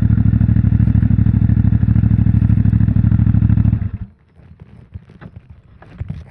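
CFMOTO 450MT's parallel-twin engine idling steadily, then switched off about four seconds in, cutting out abruptly. Faint clicks and rustles follow.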